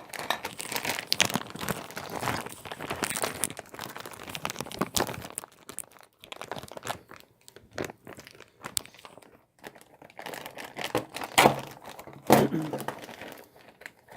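Packaging being torn open and crinkled by hand, an irregular crackling with small clicks, with two louder knocks near the end.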